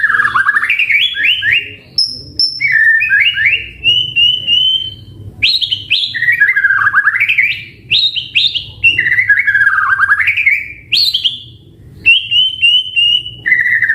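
White-rumped shama (murai batu) singing loudly: the same phrase repeats about every three to four seconds, a rapid run of notes sweeping down and climbing back up, mixed with short high level trills and brief pauses between phrases.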